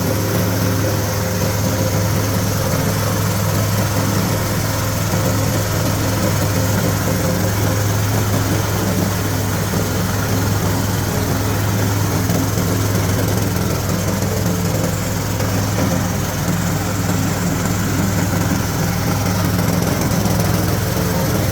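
Type 40 husk pulverizer grinding mill driven by an 8 hp diesel engine, running steadily with a constant engine hum under the whirring rush of the mill.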